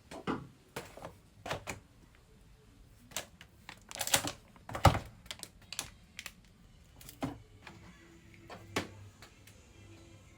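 Handling noises: scattered clicks, taps and knocks of hard objects being moved and set down. The loudest knock comes about five seconds in.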